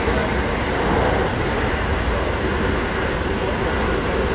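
Seibu 6000 series electric commuter train running between stations, a steady, even rumble of wheels and running gear on the track, heard from inside the carriage.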